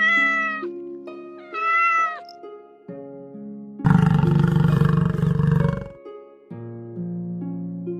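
A cat meowing twice, each meow under a second long, over background music with steady held notes. About four seconds in comes a loud, rough, noisy sound lasting about two seconds, heaviest in the low end.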